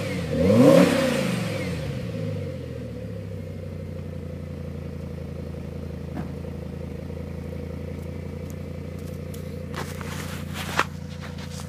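Audi RS6's MTM-tuned twin-turbo V10 is revved once from idle and drops back, then idles steadily through its quad exhausts. Near the end, a few clicks and one sharp knock come from something handled close to the microphone.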